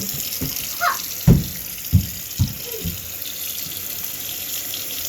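Water running from a tap into a sink in a steady rush, with several dull knocks and bumps in the first three seconds.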